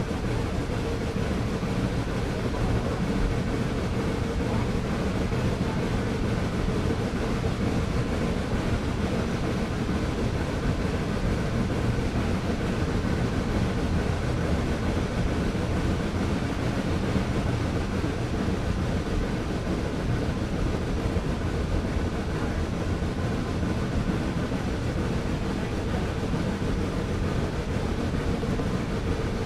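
Steady rumble of a tourist train on the move, heard from aboard: wheels and cars rolling along the track with an even, unbroken noise.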